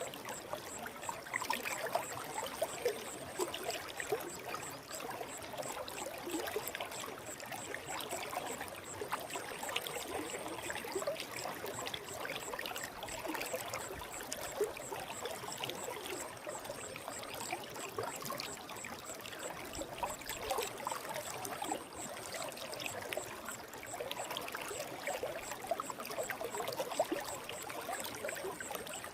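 Forest stream flowing, a steady babble of water with many small splashes and gurgles.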